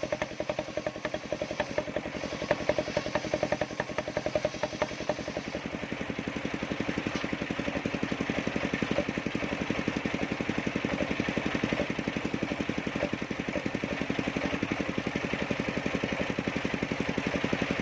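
Engine powering a circular-blade sawmill, running steadily with an even, rapid beat. There are a few sharper knocks during the first five seconds.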